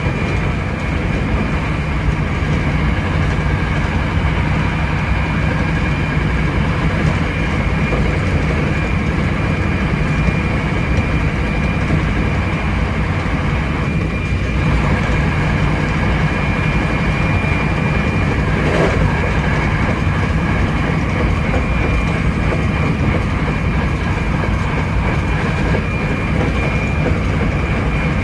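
Hankyu 7300 series electric train running at steady speed: continuous rumble of wheels on rail with a steady high whine, and a single short click about two-thirds of the way through.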